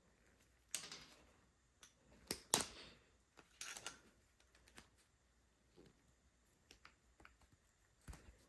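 Small carburetor parts and hand tools handled on a workbench: a few scattered light clicks and knocks, the sharpest about two and a half seconds in.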